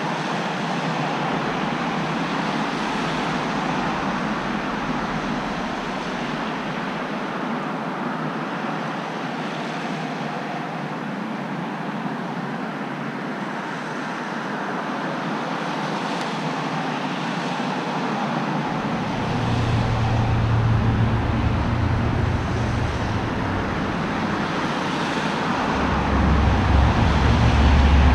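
Road traffic noise, a steady wash of tyre and engine sound. About two-thirds of the way in a deep low rumble sets in, and it grows louder near the end.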